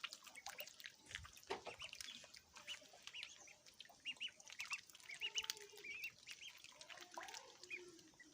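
Ducklings peeping: many short, high, arching peeps in quick succession, with scattered soft clicks.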